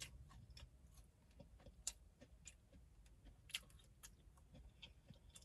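Near silence broken by faint, irregular small clicks and ticks of quiet eating: mouth and food sounds from chewing fried chicken, a couple slightly sharper about two and three and a half seconds in.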